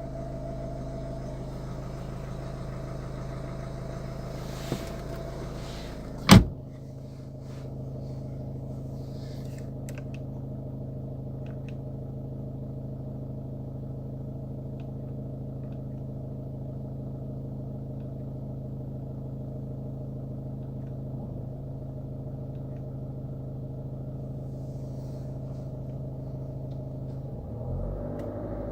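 Ford Focus 1.6 TDCi four-cylinder common-rail diesel idling steadily after a cold start. There is one sharp loud knock about six seconds in, and the engine note shifts near the end.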